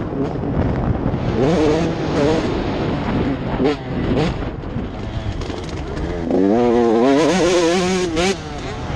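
Motocross bike engines revving, their pitch rising and falling repeatedly, with a sustained warbling rev in the last few seconds.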